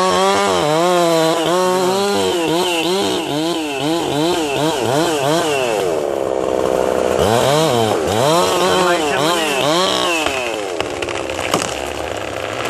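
A small engine running, its pitch rising and falling about twice a second as it revs and loads, with deeper drops in the middle.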